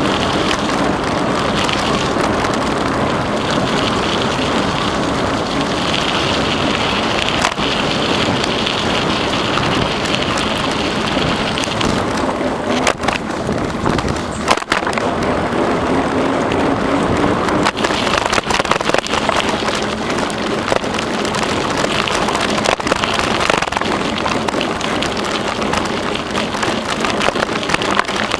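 Steady rushing noise of a bicycle being ridden: tyres rolling on the trail surface and wind on the microphone, with scattered clicks and knocks from bumps in the trail.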